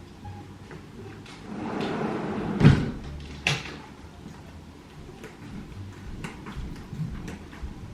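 Knocks and clatters of household objects being handled while food is served. A rustling noise builds up from about a second and a half in and ends in one sharp, loud knock. Another knock follows about a second later, then light scattered clicks.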